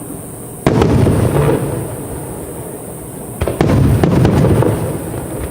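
Aerial firework shells bursting: two loud booms, about 0.7 and 3.6 seconds in, each followed by a long rolling echo with some crackling.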